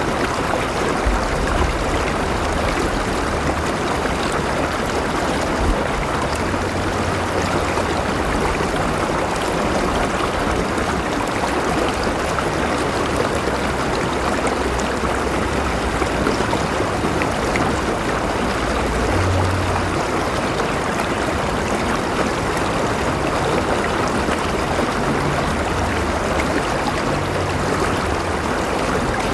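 River water flowing over rocks: a steady rushing and burbling with no pauses.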